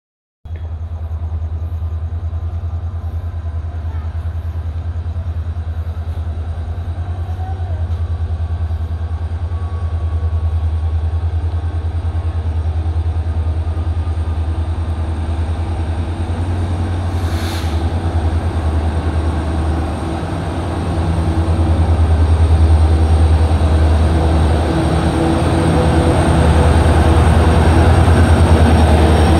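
Diesel locomotive hauling a freight train, approaching and drawing alongside. Its deep engine rumble grows steadily louder as it nears, and is loudest near the end. A brief hiss comes about 17 seconds in.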